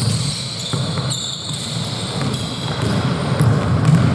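Sounds of a basketball game on an indoor court: the ball bouncing and sneakers squeaking on the floor, with short high squeaks about a second in.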